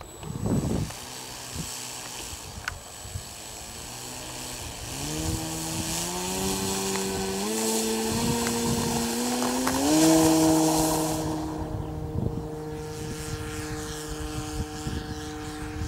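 Electric motor and propeller of a radio-controlled Cessna 182 model plane running up: a pitched hum that steps up in pitch three times, then eases slightly and holds steady.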